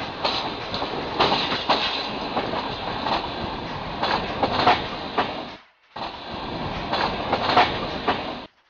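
Passenger train running at speed, heard from an open carriage window: a steady rumble and rush with irregular sharp knocks from the wheels over the rail joints. The sound breaks off completely for a moment a little past halfway and then resumes.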